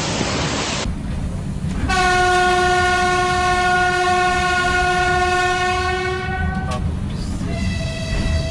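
Train horn sounding one long, steady blast of about five seconds over the low rumble of a moving train. The horn cuts off suddenly, and a second, higher horn note starts near the end. A hiss like heavy rain fills the first second.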